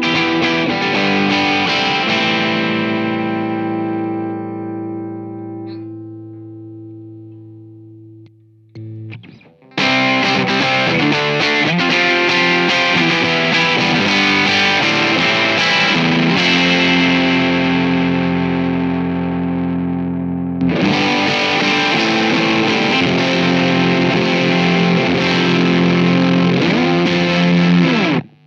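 Telecaster electric guitar played through an overdrive pedal, lightly driven. A chord is left ringing and fades out, then comes a longer stretch of driven riffing that breaks off once and cuts off sharply near the end.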